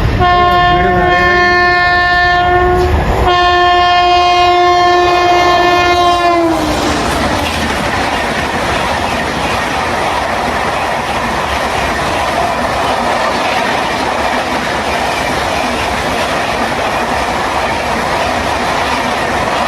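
Horn of a fast Indian Railways express train, sounded in two long blasts whose pitch drops as the train passes. The rushing and rattle of the coaches going by at speed follows.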